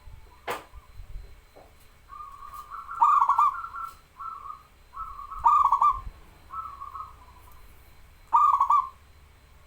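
Zebra dove (perkutut) cooing: three loud, stuttering coo phrases about two and a half seconds apart, with softer coos between them. A single sharp click about half a second in.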